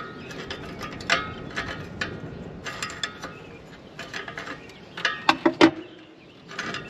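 Ratchet wrench clicking and metal clinking as a nut is worked off a carriage bolt on a tractor's exhaust stack, in irregular spells, with the loudest knocks about five seconds in.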